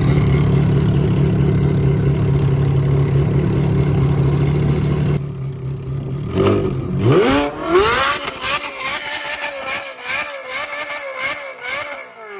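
Loud Lamborghini exhaust: a steady deep engine rumble, then, after a sudden break, revs that rise and waver up and down, with sharp crackling pops from the exhaust.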